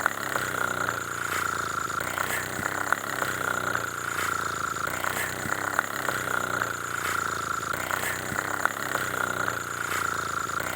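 Steady engine-like idling sound with a high whine and scattered light ticks.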